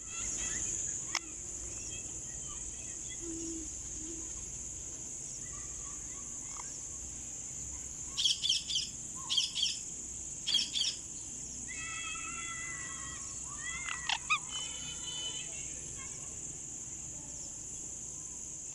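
Indian ringneck parakeet calling in a tree: short, harsh screeches in quick groups of two or three about halfway through, then a longer held note and a few more sharp calls. A steady high-pitched insect hum runs underneath throughout.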